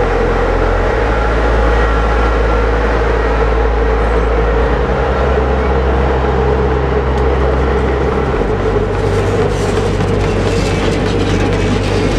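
Passenger coaches of a departing train rolling slowly past a platform, a steady running rumble and hum with light wheel clatter.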